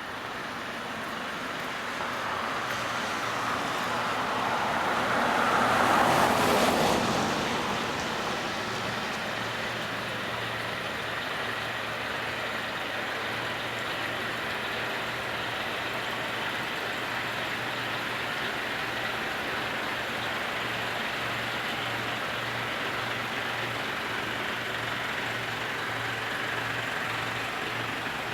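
A road vehicle passes close by, its noise swelling to a peak about six seconds in and then fading. A heavy vehicle's engine then keeps running steadily with a pulsing low hum.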